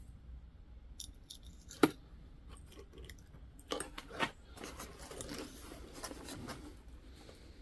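Small metal jewelry being handled: sharp little clicks and rattles as a locket and tangled chains are worked apart, the loudest click just under two seconds in, then light scraping and rustling.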